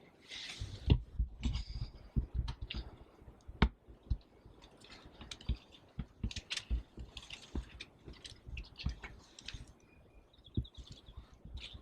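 Irregular sharp clicks and low thumps of handling and movement close to the microphone, with a brief run of high repeated chirps from a bird near the end.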